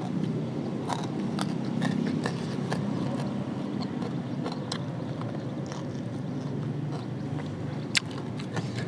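A person chewing and biting food close to the microphone, with scattered small clicks and smacks and one sharp click about eight seconds in, over a steady low background noise.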